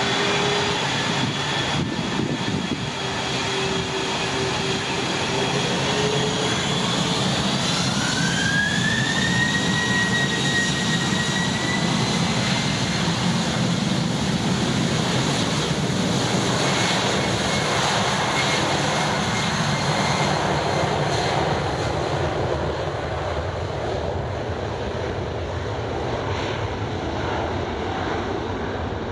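Jet airliner engines running with a steady roar. Their whine rises in pitch about seven seconds in, then holds, as the engines spool up.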